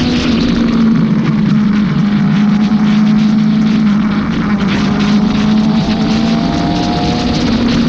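Kawasaki ZX-6R 636 inline-four engine running at road speed, holding a steady note that dips and rises a little around the middle, under heavy wind noise on the bike-mounted camera microphone.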